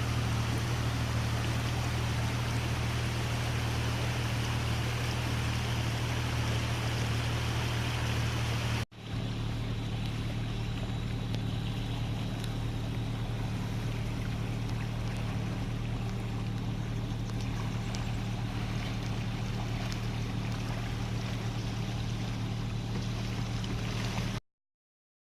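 Jeep Wrangler TJ engine drone with tyre and road noise as it drives a forest track, steady throughout. It briefly drops out about nine seconds in and cuts off suddenly near the end.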